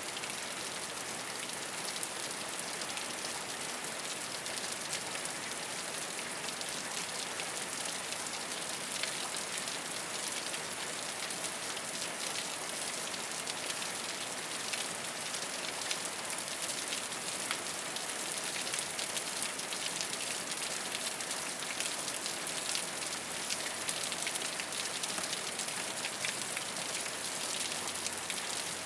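Steady rain falling on a rooftop, an even hiss with the patter of individual drops striking the surface.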